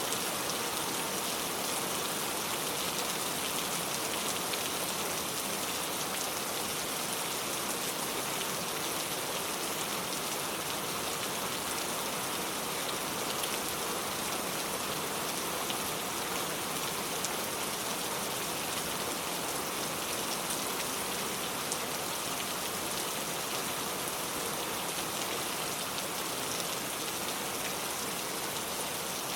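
Steady rain falling and pattering on surfaces, a dense even hiss dotted with fine drop ticks.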